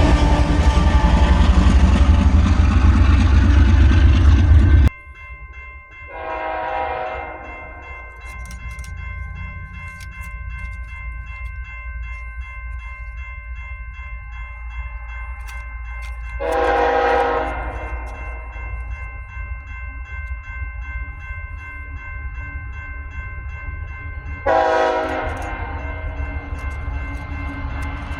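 A passing train's loud rumble cuts off abruptly about five seconds in. Then a diesel locomotive rumbles low while its multi-chime air horn sounds three blasts, the last one the longest.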